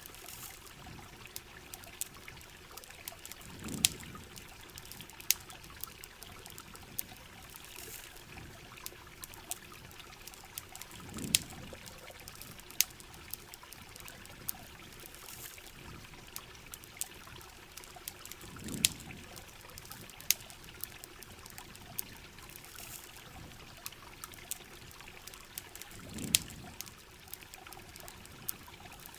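Steady heavy rain with water trickling and pouring, and a campfire crackling in scattered sharp pops. A low swell comes back about every seven and a half seconds.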